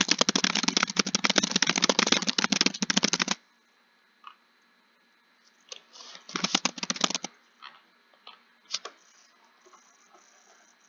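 Fast typing on a computer keyboard, a rapid stream of key clicks that stops about three seconds in. After a pause there are a few single key presses, a short burst of typing around six to seven seconds in, and then a few more scattered key presses.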